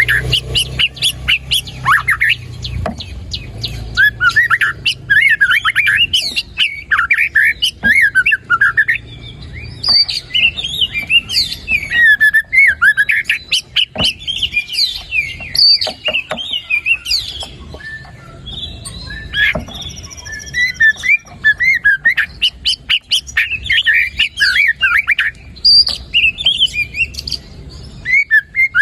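White-rumped shama (murai batu) singing a fast, varied song of whistled phrases and chattering notes, packed with mimicked 'isian' song. The song runs almost without pause, with brief lulls about three seconds in and just past the middle.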